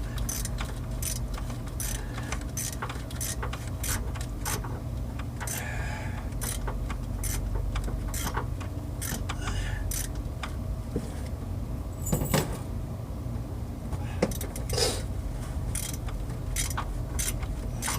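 Irregular metallic clicks and clinks of hand tools and loose metal parts being handled, over a steady low hum.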